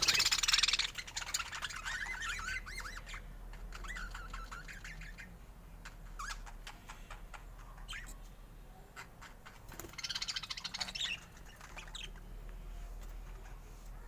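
Budgerigars chattering and warbling, with a loud burst of harsh chatter at the start and another about ten seconds in, scattered short chirps between.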